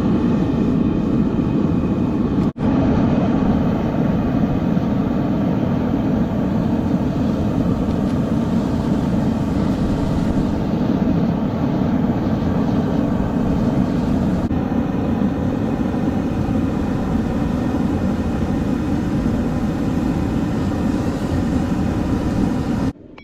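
A loud, steady machine roar with a faint hum running through it, which cuts off suddenly near the end.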